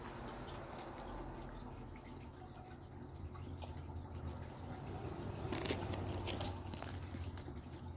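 Faint wet chewing and mouth clicks from eating a white fudge covered Oreo, with a brief crackle of movement about five and a half seconds in.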